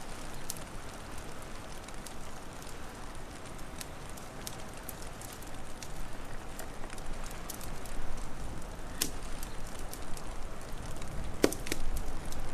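Wood fire crackling: a steady soft hiss dotted with many small sharp crackles, and two louder pops, about nine seconds in and near the end. A low rumble grows in the second half.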